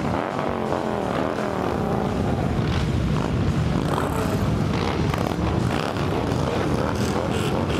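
Loud, steady engine noise from many vehicles running together, with pitches wavering up and down in the first couple of seconds.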